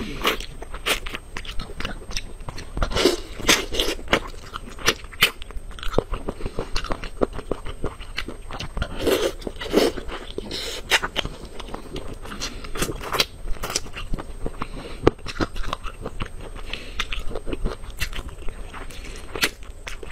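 Close-miked eating: a person biting and chewing pieces of meat in sauce, with wet mouth smacks and frequent, irregular sharp clicks.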